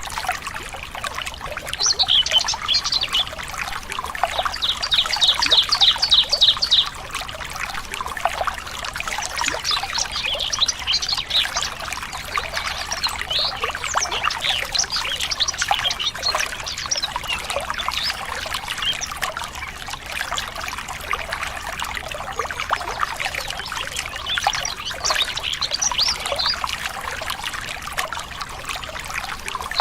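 Small birds chirping over a steady trickling stream. About five seconds in, one bird gives a quick run of repeated notes.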